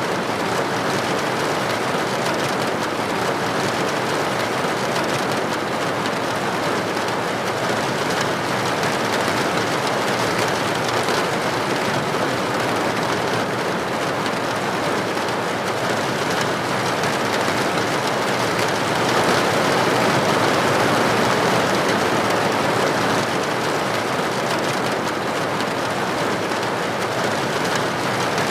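Steady rain falling in a continuous even hiss, swelling a little louder about two-thirds of the way through.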